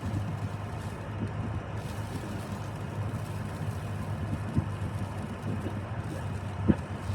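Steady low drone of a car driving on a snowy road, heard from inside the cabin, with a soft knock about four and a half seconds in and a sharper one near the end.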